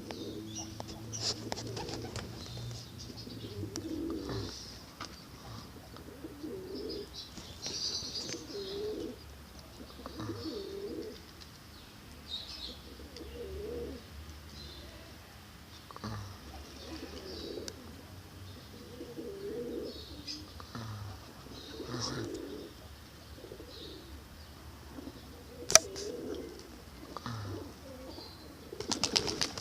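Pigeons or doves cooing over and over, a low coo every second or two, with fainter high chirps from small birds. A single sharp click comes about three-quarters of the way through, and a brief burst of noise just before the end.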